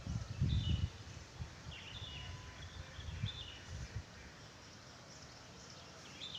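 Wild songbirds chirping in short, high phrases, a few seconds apart, over quiet outdoor ambience. A low rumble hits the microphone in the first second.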